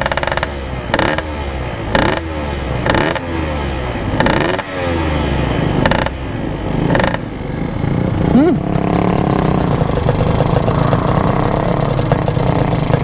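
Yamaha RX-King two-stroke single-cylinder engine blipped about six times at standstill, then revved once more and left running. It has a bad knock that the rider puts down to a badly damaged piston.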